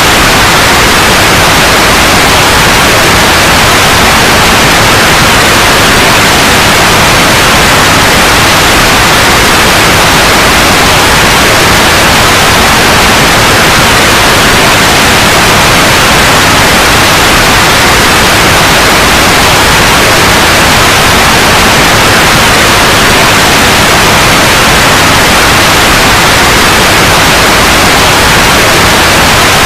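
Continuous loud white noise, a steady even hiss with no change.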